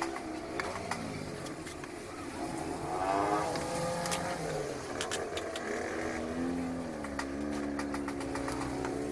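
Motor vehicle engines running and changing pitch, rising about three seconds in and gliding again later, with scattered small clicks.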